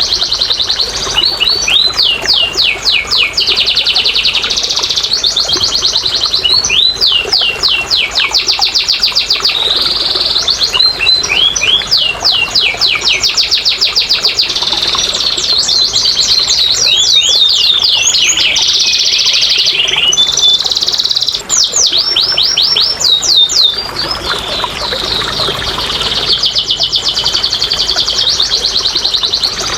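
Domestic canary singing a long unbroken song: rapid trills of quick sweeping notes, about ten a second, alternate with steady buzzing rolls.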